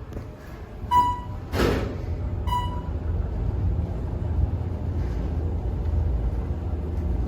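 Elevator arrival chime dinging twice, about a second and a half apart, with a short rush of noise between the dings, followed by a steady low rumble.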